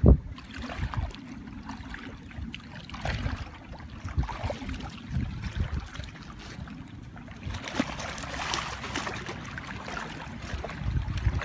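Shallow water sloshing and splashing, with irregular bumps and rumble, a sharp knock right at the start, and a brighter burst of splashing about eight seconds in.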